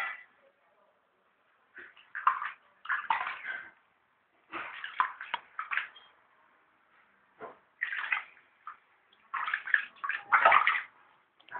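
Water splashing and sloshing in short, irregular bursts with gaps between, as a cat is bathed.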